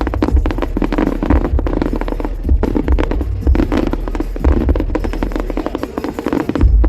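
Aerial fireworks display: dense crackling with repeated low booms of bursting shells.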